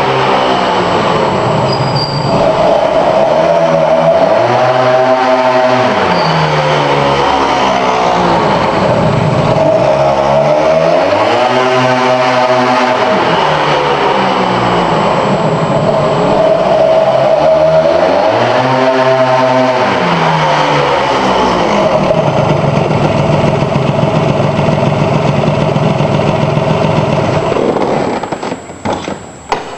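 Small engine breathing through a Sito Plus aftermarket exhaust, revved and held at high revs. It dips and climbs back up in long sweeps about three times, then drops away near the end.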